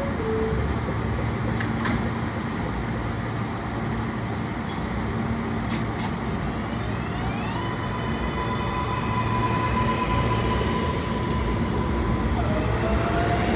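Subway train's electric propulsion whining over a steady rumble. About halfway through, the pitch climbs and then holds, and near the end it steps into another rising whine.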